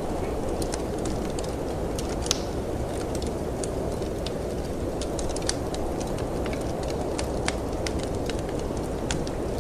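Wood fire crackling in a fireplace, with frequent irregular sharp pops and snaps, over a steady low rush of wind.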